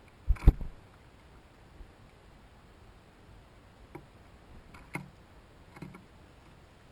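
Sharp clicks and knocks: a loud double knock about half a second in, then three fainter clicks in the last few seconds.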